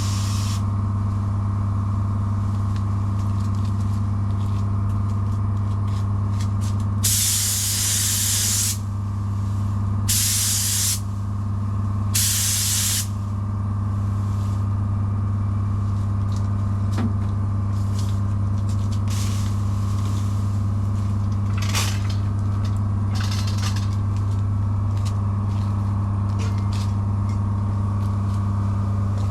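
Paint spray gun hissing in three short bursts, about seven, ten and twelve seconds in, over a steady machine hum.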